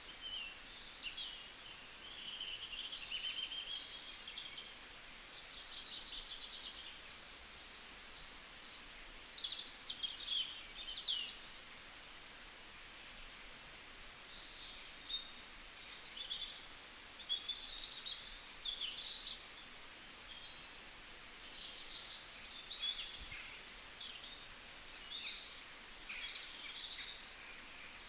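Many small birds chirping and trilling, with a faint steady hiss underneath.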